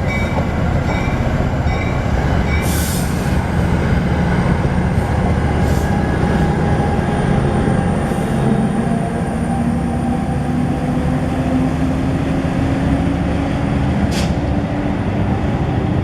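A train passing at close range: a loud, steady rumble of the locomotive and wheels on the rails, with an engine tone rising slightly in the second half. A few brief high wheel squeals cut through it, and a repeating ringing tone, such as a crossing bell, dies away in the first few seconds.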